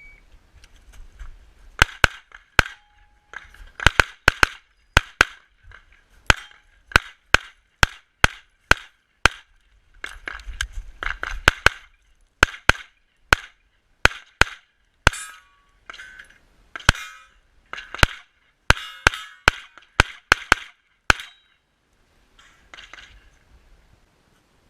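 Competition pistol firing a USPSA course of fire: rapid shots, mostly in quick pairs, with short pauses between strings, about thirty-five shots that end a few seconds before the close.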